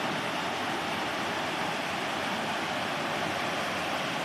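A mountain stream rushing over rocks: a steady, even water noise.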